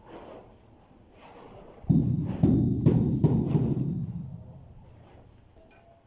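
A series of deep, booming thuds: one faint thud at the start and another about a second in, then four louder ones in quick succession from about two seconds in, each dying away slowly.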